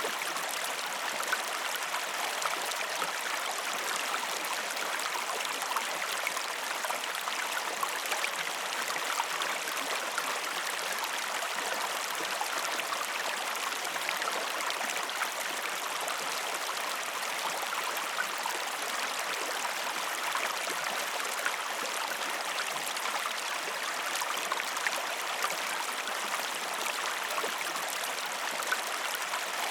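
A stream flowing steadily over rocks, a constant rush of water with fine trickling and splashing detail.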